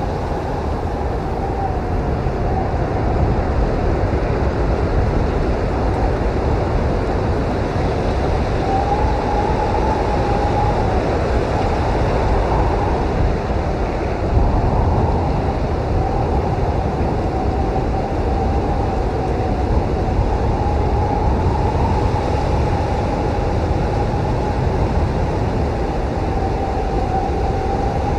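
Snowstorm wind blowing steadily, a deep rumble under a thin, wavering howl that swells and eases.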